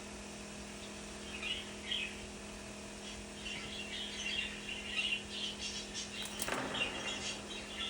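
Budgerigar chirping in short bursts of quick chirps, a few seconds apart, with a brief rustle about six and a half seconds in.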